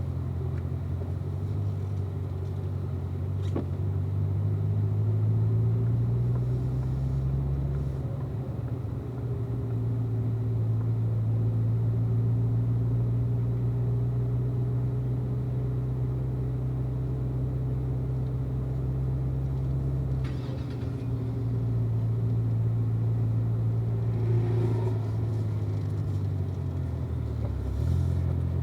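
2016 Corvette Z06's supercharged 6.2-litre V8 running at low, fairly steady revs, easing slightly up and down.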